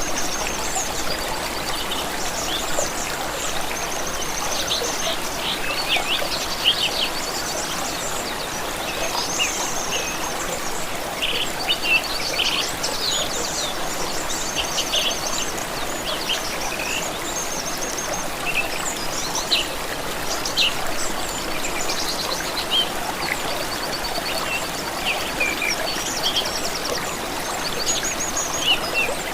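Several songbirds chirping and trilling over the steady rush of a stream.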